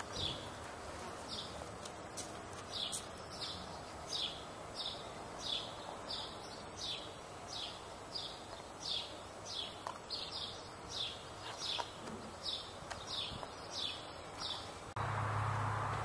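A songbird repeating one short, high, falling call note, roughly once or twice a second, over faint outdoor background hiss. About a second before the end, a louder steady low hum cuts in abruptly.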